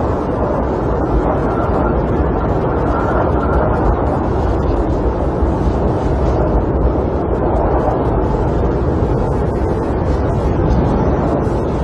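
Snowstorm wind buffeting a camper: a steady, deep rushing noise without breaks.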